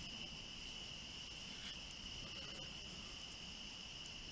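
A faint, steady, high-pitched trilling of insects that continues without a break.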